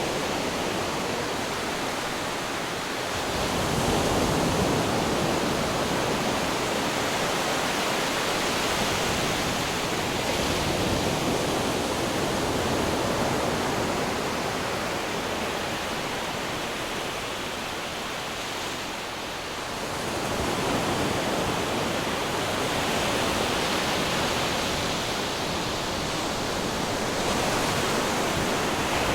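Ocean waves breaking on rocks, a continuous rush of surf that swells and eases in slow surges every several seconds.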